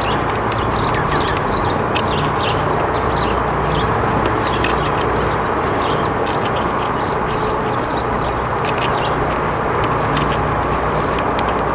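Small birds chirping, many short high chirps scattered throughout, over a steady low rumble of background noise.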